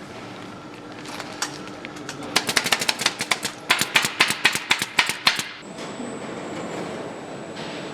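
Rapid mechanical clicking: two runs of sharp, evenly spaced strikes, about seven a second, starting about two seconds in and lasting about a second and a half each. A thin, steady, high-pitched whine comes in near the end.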